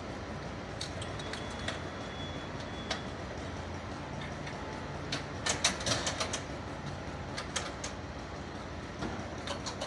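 Steady low hum of an idling fire-service vehicle engine, with scattered sharp clicks and knocks throughout and a dense cluster of them about five to six and a half seconds in.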